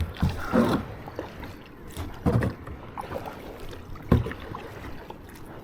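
Kayak paddling: short splashing paddle strokes roughly every two seconds, with a sharp knock at the very start and another about four seconds in.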